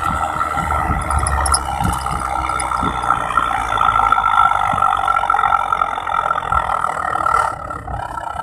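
Pickup truck running on the road with a homemade modified exhaust: a steady high-pitched exhaust tone over a low rumble, easing off near the end.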